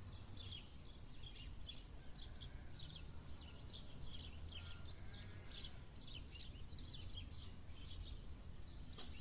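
Small birds chirping, short high chirps two or three a second, faint over a steady low rumble of outdoor background noise.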